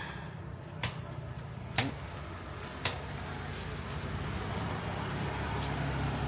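Three sharp chops about a second apart, a knife cutting open a fresh coconut, over a low traffic rumble that grows louder toward the end.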